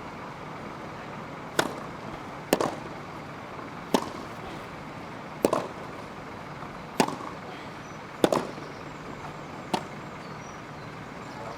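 Tennis ball struck back and forth by rackets in a rally on a grass court: seven sharp hits, about one every second and a half, over steady background noise.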